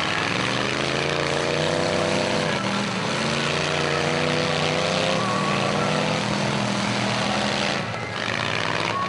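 Several demolition derby car and truck engines revving hard together, their pitch rising and falling over a dense wash of engine noise.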